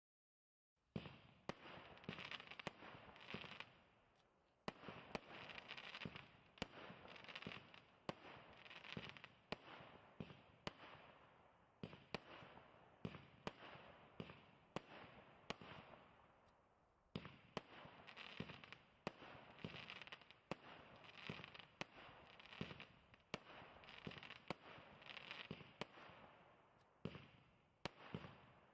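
A 36-shot, 20 mm fireworks cake firing, starting about a second in: shot after shot, several a second, each followed by a hissing crackle, with short lulls twice between volleys.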